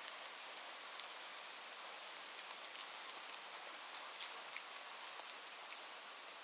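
Steady rain, an even hiss with scattered sharp little ticks of individual drops.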